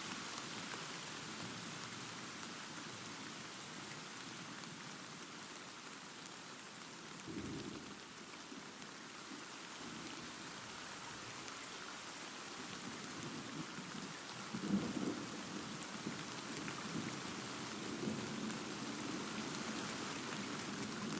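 Steady rain with rolling thunder: low rumbles swell about a third of the way in and again from about halfway, the loudest a little past the middle, under an even hiss of rain.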